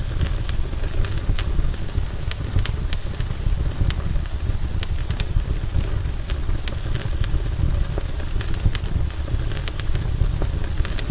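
Campfire burning, wood crackling and popping in many short sharp snaps over a steady low rumble.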